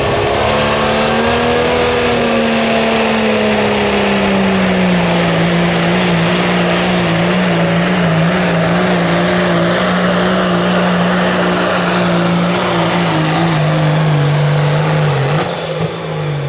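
Turbocharged diesel 4WD pickup truck pulling a weight-transfer sled at full throttle. The engine note climbs over the first couple of seconds, then slowly sags in pitch as the load builds, with a high steady turbo whistle above it. About fifteen seconds in, the throttle comes off and the engine and whistle fall away together.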